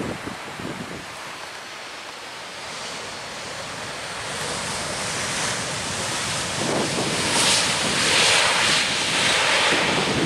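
Surf breaking on the beach with wind buffeting the microphone; the wash of the waves swells louder through the second half.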